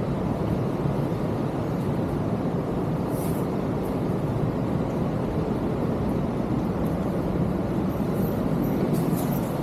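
Steady rushing of water, an even rumbling noise that holds constant, with a faint tick about three seconds in.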